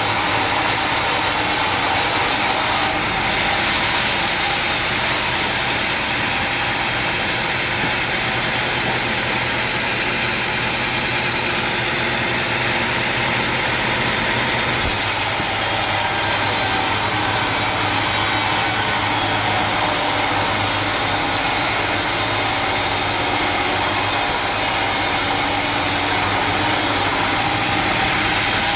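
Sawmill machinery running steadily: a continuous mechanical hum with a strong hiss over it, which shifts abruptly a few times.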